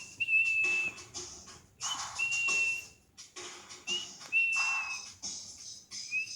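Pet bird whistling the same phrase over and over: a quick upward flick into a held, level note, repeated about every two seconds, three times, with a fourth starting near the end.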